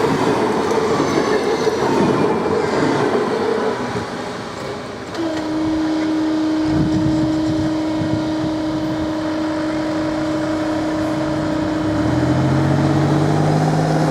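DB class 424 S-Bahn electric multiple unit running, with faint falling whines in the first few seconds. From about five seconds in a steady hum sets in, and lower tones join it near the end.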